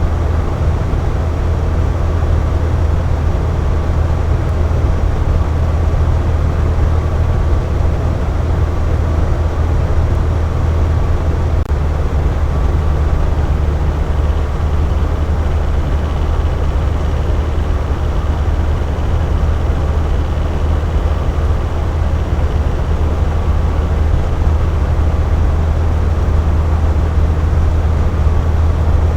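Box fan running steadily: a constant whooshing hum with a strong low drone and no change in speed.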